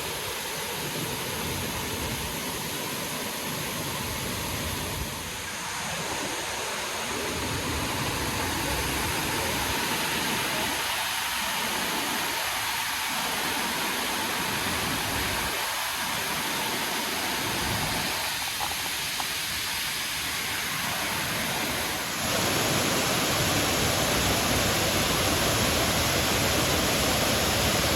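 Rushing water of a waterfall in a river gorge, a steady hiss that gets louder near the end.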